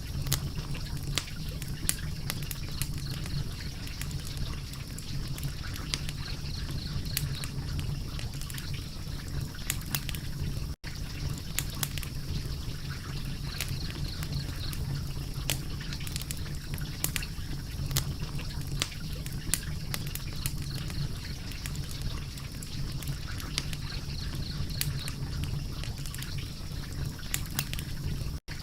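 Wood fire crackling: frequent sharp pops and snaps over a steady low rumble, cutting out to silence for an instant twice, about 11 seconds in and near the end.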